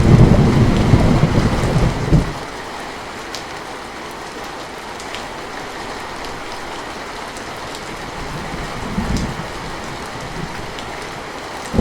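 Steady rain falling, with scattered drops ticking, and a loud rumble of thunder that dies away abruptly about two seconds in. A softer rumble swells briefly about nine seconds in, and another loud roll of thunder begins at the very end.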